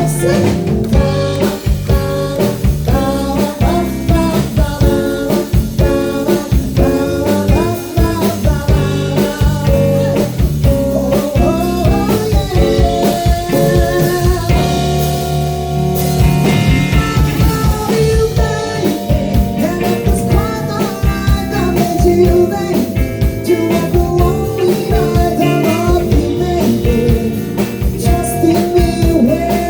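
Live band playing an instrumental section of a pop-rock song, with drum kit and electric guitar keeping a steady beat under held chords.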